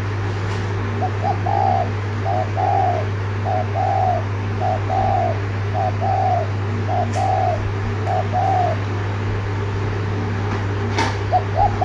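Spotted dove giving its rapid 'thúc gù' coo: a short note and then a longer swelling coo, repeated about once a second seven times, a pause, then the phrase starting again near the end. A steady low hum runs underneath.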